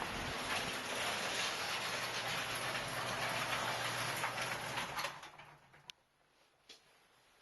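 Steady rushing wind with a faint low hum underneath, which cuts off about five seconds in to near quiet broken by a single click.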